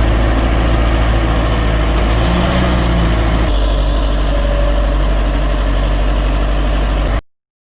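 Heavy diesel engine of earthmoving machinery running steadily, with an abrupt cut to a different shot of engine running about three and a half seconds in. The sound drops out to silence near the end.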